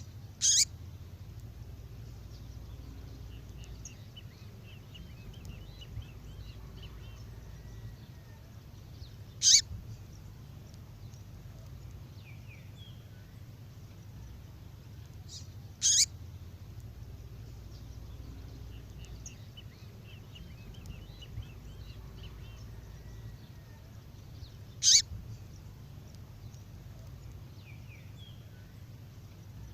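A female songbird's call: a sharp, very short note falling in pitch, given four times several seconds apart. Faint soft twittering comes between the calls.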